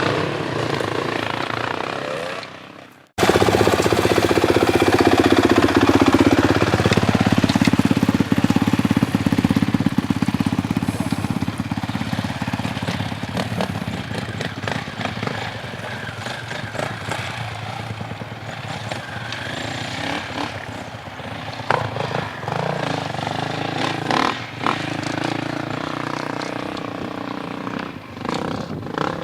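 Motorcycle engine running steadily. The sound cuts out briefly about three seconds in, then comes back loud. The engine note drops in pitch a few seconds later and slowly grows quieter, with a few knocks near the end.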